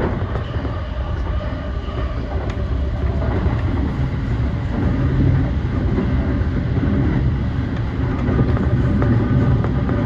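Yokosuka Line E235 series electric train running at speed, heard from inside the car: a steady rumble of wheels on rail with a few faint clicks over rail joints.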